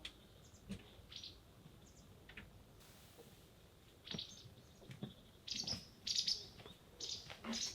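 Small songbirds chirping in short, high calls: a few scattered chirps at first, coming thicker from about four seconds in. A few soft knocks or rustles sound among them.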